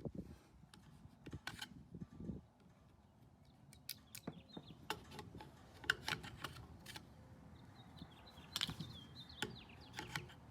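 Quiet outdoor ambience: faint bird chirps twice, with scattered light clicks and handling noises.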